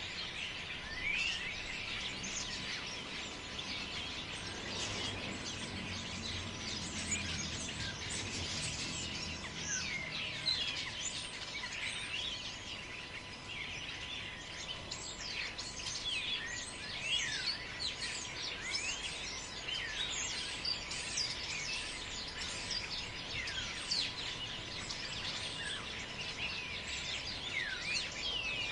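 Chorus of many birds chirping and calling over one another in a forest, with many short quick calls. A low rumble, such as wind, swells about five seconds in and fades a few seconds later.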